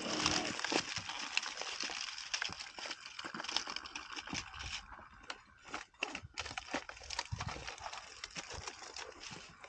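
Dry twigs, vines and leaf litter crackling and snapping in irregular, scattered clicks, as the brush is pushed through.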